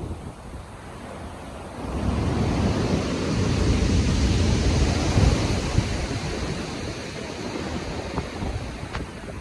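Heavy ocean waves breaking in a storm, with wind noise. One big wave builds about two seconds in, crashes, then washes back and fades.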